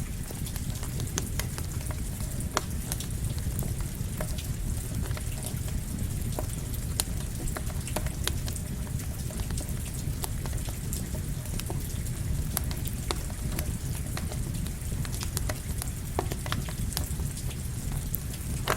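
Steady rain mixed with a crackling campfire: a constant low rumble and hiss, with many sharp pops and snaps scattered irregularly throughout.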